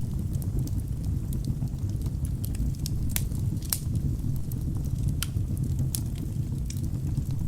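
Wood fire burning in a fireplace: a steady low rumble of the flames with irregular sharp crackles and pops from the burning logs, a few louder snaps among them.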